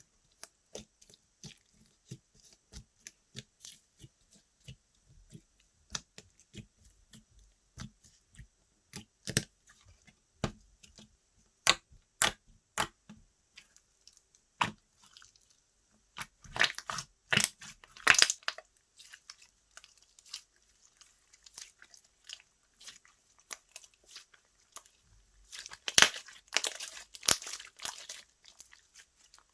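Slime being pressed, poked and stretched by hand, making sticky clicks and air-bubble pops. Denser, crackly runs of pops come twice, about halfway through and near the end.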